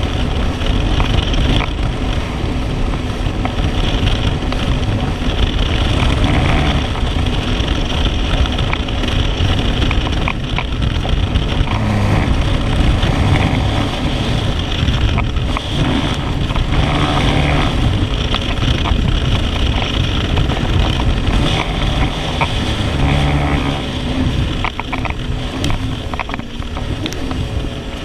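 Jet ski running steadily under way, its engine drone mixed with rushing wind on the microphone.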